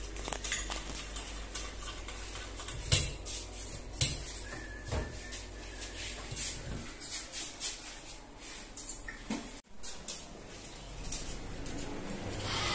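Scattered light clicks and knocks of hand work on hardware, with two sharper knocks about three and four seconds in.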